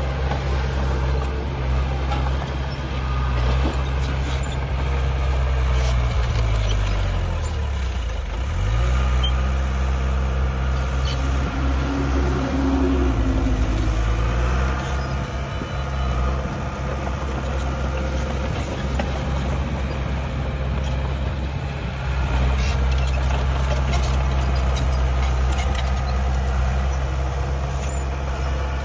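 Heavy diesel engine of earth-moving machinery running under load. The revs drop and pick back up about a quarter of the way in, and again about halfway through.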